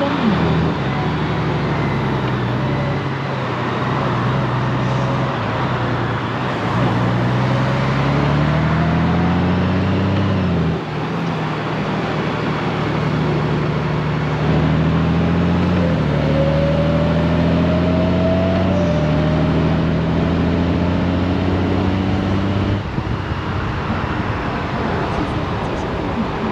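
Honda Gold Wing's flat-six engine accelerating through the gears. Its pitch climbs and then drops suddenly at each automatic upshift of the dual-clutch transmission, four times, over a steady rush of wind and road noise.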